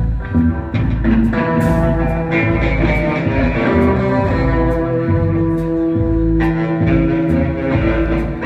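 A live band playing an instrumental break with no singing: plucked-string instrument notes over steady bass and drum beats, with one long note held through the middle.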